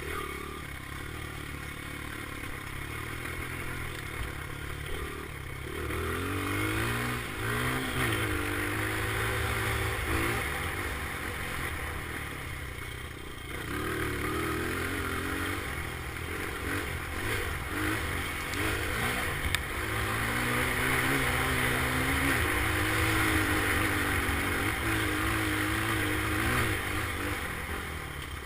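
Dirt bike engine revving up and falling back over and over as it is ridden around a track, with clattering and rushing noise throughout. It is loudest in the last third.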